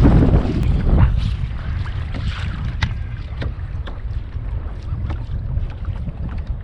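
Wind buffeting the microphone as a steady low rumble, over a kayak being paddled: water splashing and scattered small clicks from the paddle strokes, loudest in the first second or so.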